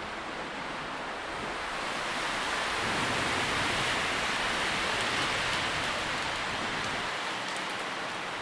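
Wind blowing through tree leaves in a steady rustle that swells in a gust a couple of seconds in and eases slightly toward the end.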